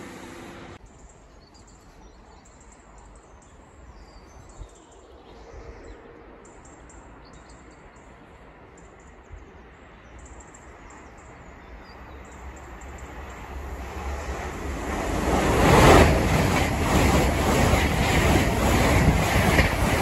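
An LNER express passenger train passing through the station at speed without stopping. Its noise builds over a few seconds, then becomes loud about fifteen seconds in, with a fast rhythmic clatter of wheels over the rail joints.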